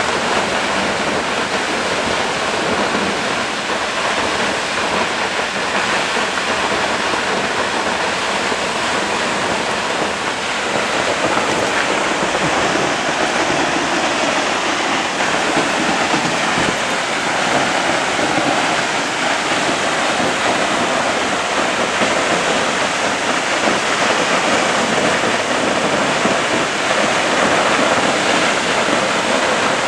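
Steady rush of falling water from a waterfall, an even unbroken noise.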